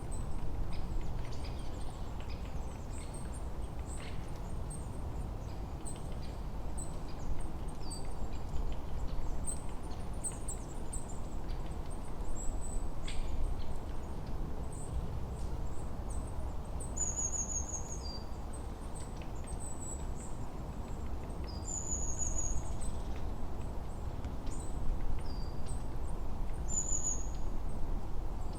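Forest ambience of many small birds chirping high and thin, one of them repeating a short high down-slurred phrase about every five seconds, over a steady low rumble of wind.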